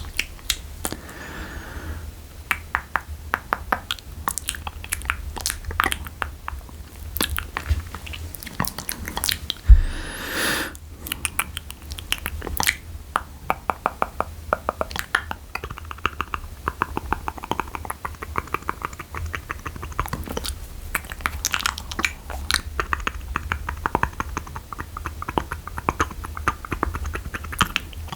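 Close-miked wet mouth sounds for ASMR spit painting: a dense, irregular run of tongue clicks, lip smacks and spit sounds, with one louder pop and a breathy rush about ten seconds in.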